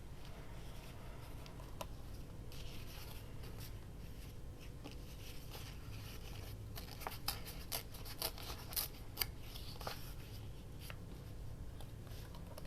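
Scrap paper being handled and trimmed to fit a journal page: light rustling, with a run of short, sharp snips and clicks in the second half.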